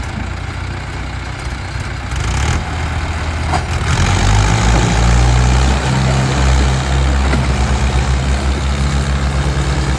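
Mahindra Arjun tractor's diesel engine working under the load of a fully loaded wood trolley. It gets louder and works harder about two to four seconds in, then runs hard with a fast, even pulsing beat.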